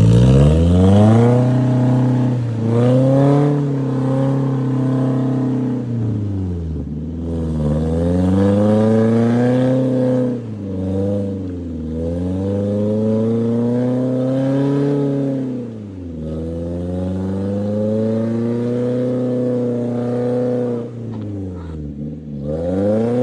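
Off-road 4x4 vehicle's engine revving hard over and over, its pitch climbing and falling back every few seconds as the throttle is worked.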